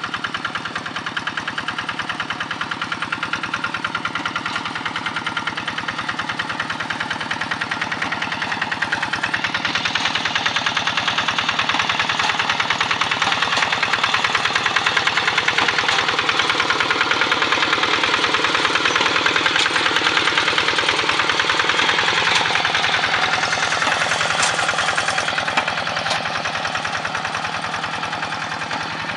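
Single-cylinder diesel engine of a Quick hand tractor running with fast, even firing pulses; it grows louder about ten seconds in and eases back down a little after twenty seconds.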